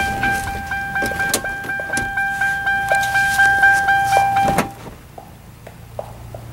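A car's door-open warning chime sounding over and over, pulsing about three times a second, then cut off about four and a half seconds in by the thud of the car door shutting.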